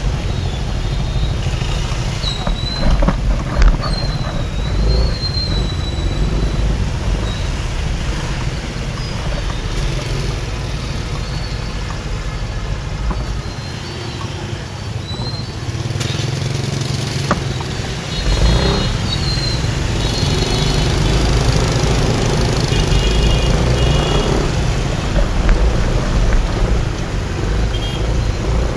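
Riding a motorbike through city traffic: wind rumble on the microphone with engine and traffic noise around it. The rumble drops away for a few seconds midway as the bike slows. Short high horn beeps sound from nearby vehicles in the second half.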